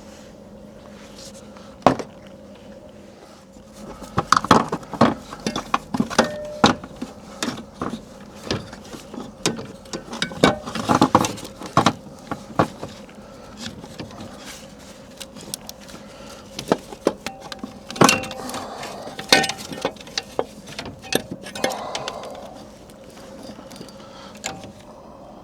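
Irregular metallic clinks, taps and knocks of exhaust parts and fasteners being handled as a new catalytic converter is offered up and bolted on, busiest in the middle and quieter near the start and end.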